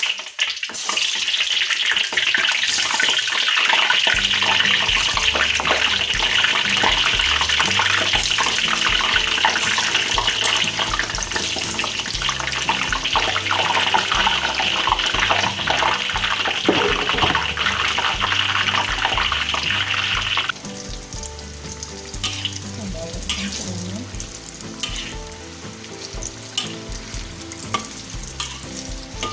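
Slices of eggplant deep-frying in hot oil in a wok: a loud, steady sizzle once the pieces go in. About two-thirds of the way through, the sizzle drops suddenly to a quieter hiss with scattered crackles.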